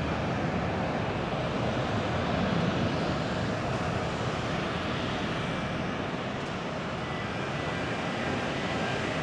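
Jet airliner's engines at takeoff thrust, a steady rush of jet noise that grows a little louder about two to three seconds in, then slowly eases as the plane departs.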